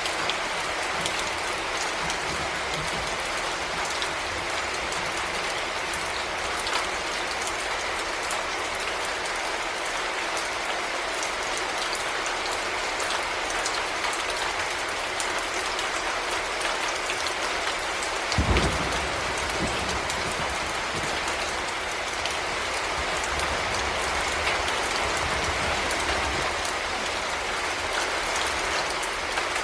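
Heavy rain falling steadily, a dense even hiss of drops. About two-thirds of the way in there is a short low rumble, the loudest moment.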